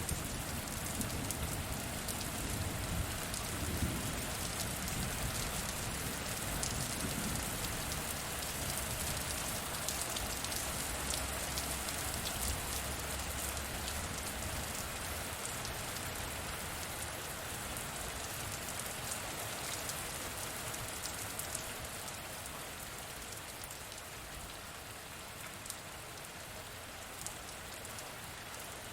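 Steady heavy rain with many sharp, close drop ticks, and a low rumble of thunder dying away over the first several seconds. The rain eases slightly in the second half.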